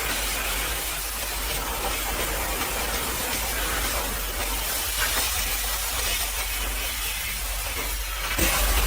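High-pressure washer spray hissing against a truck, steady and dense, with a low hum underneath; it gets louder about eight seconds in.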